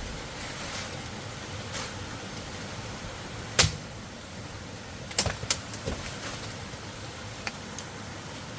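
A sharp knock about a third of the way in, then a quick run of three or four lighter knocks, over a steady background hiss.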